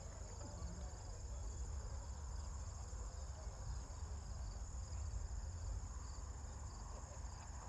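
Steady high-pitched insect trilling over a constant low rumble.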